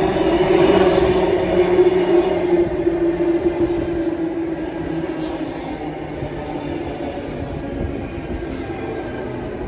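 Double-deck electric suburban train pulling into the platform and running past close by: a rumbling hum with a steady low tone, loudest in the first two seconds, then easing as the carriages roll by.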